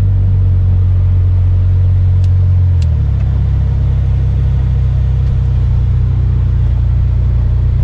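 Jeep Wrangler JK Unlimited driving on beach sand: a steady low engine and drivetrain drone that drops to a lower note about three seconds in.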